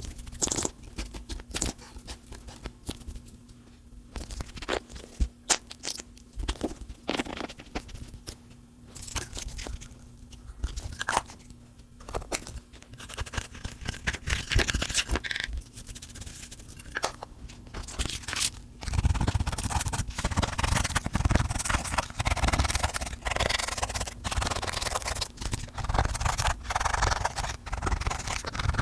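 Slime being squished and mixed by hand as lipstick is worked into it, with sticky clicks, crackles and pops. About two-thirds of the way through, the handling becomes denser and louder.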